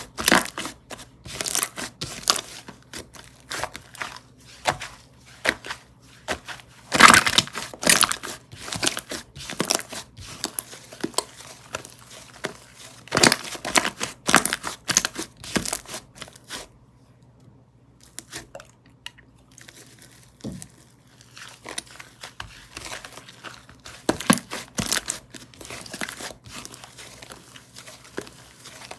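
Slime being squished, stretched and pressed by hand, giving dense crinkly crackling and sharp popping clicks, with a short quieter pause about 17 seconds in.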